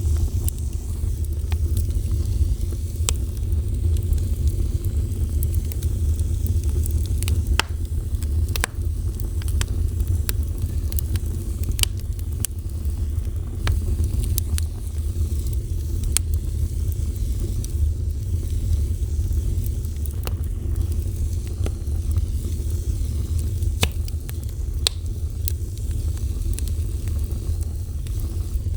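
Wood fire burning with a steady low roar and frequent, irregular sharp crackles and pops.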